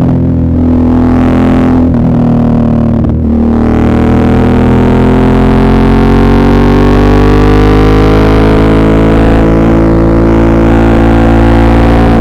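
Suzuki V-Strom 650's V-twin engine pulling under load. Its note dips briefly twice in the first few seconds, then rises steadily as the revs climb.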